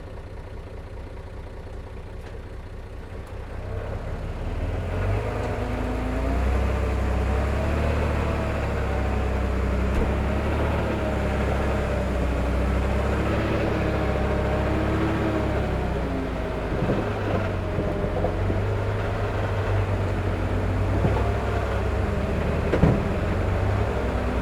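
Heavy diesel earthmoving machinery running, its engine pitch rising and falling as it works, getting louder a few seconds in. A single sharp knock near the end.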